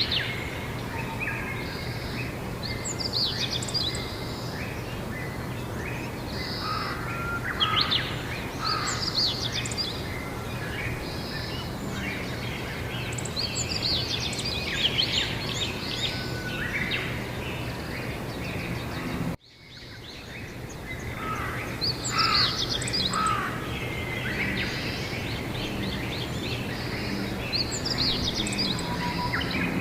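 Several songbirds chirping and singing in overlapping bursts over a steady low background hum. About nineteen seconds in, the sound cuts out for a moment and fades back in.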